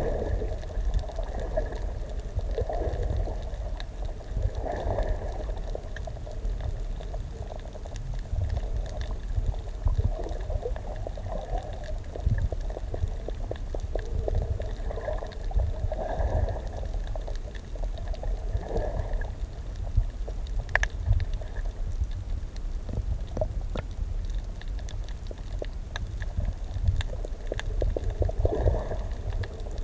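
Underwater recording: air bubbles gurgling in bursts every few seconds over a low, constant rumble.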